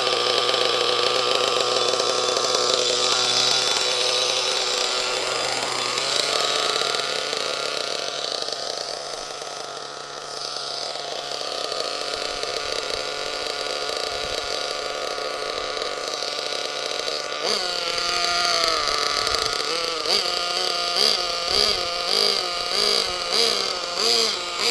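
Small SH .21 nitro engine of an HSP 1/8 RC monster truck, freshly started and being warmed up, running steadily at a high idle. Its pitch shifts a couple of times, and in the last few seconds the throttle is blipped in short revs about once a second.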